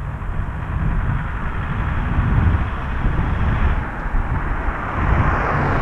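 Street traffic noise with a steady low rumble, a passing vehicle swelling up near the end.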